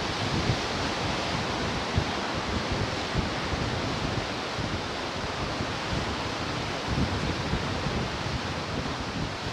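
Ocean surf washing on the shore in a steady hiss, with wind buffeting the microphone in irregular low rumbles.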